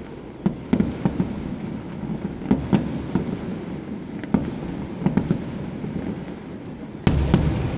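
Firecracker pops at a street procession: scattered sharp cracks over a steady rumble, breaking into a louder, denser burst about seven seconds in.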